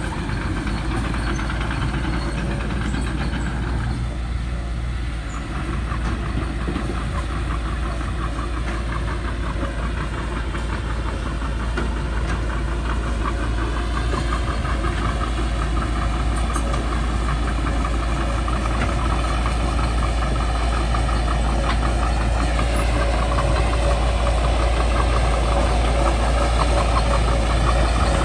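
Caterpillar D3C bulldozer's diesel engine running steadily at work, its pitch slowly dipping and rising as the engine speed changes under load.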